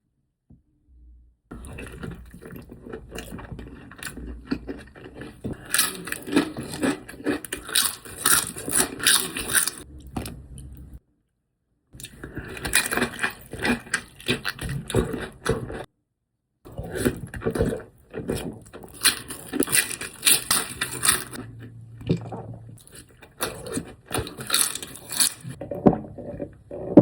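Close-miked eating sounds: wet, crackly chewing with clicks and scrapes, cut off abruptly twice by edits.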